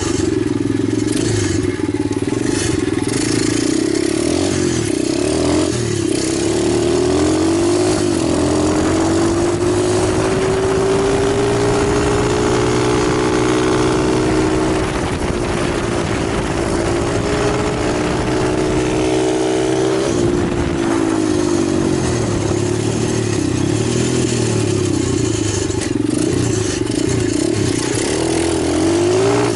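Italjet 125cc pit bike engine running under throttle, its pitch climbing slowly, then falling back around the middle, climbing again and dropping off about two-thirds through.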